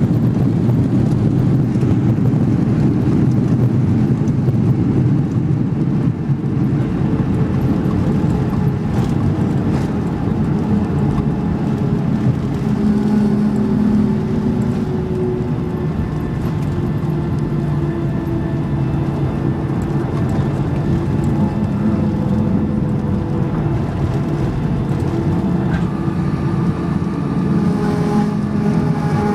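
Cabin noise inside a Boeing 737-300 on its landing rollout: a loud, steady rumble of engines and airflow. Engine tones fall slowly in pitch as the jet slows, and a few other tones come in near the end.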